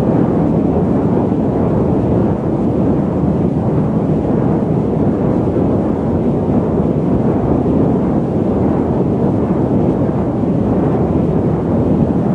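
Airliner cabin noise in cruise flight: a steady, deep rumble with no changes.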